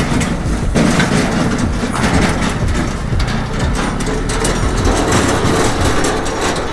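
Bajaj Pulsar NS200's single-cylinder engine running under way, mixed with heavy road and wind noise.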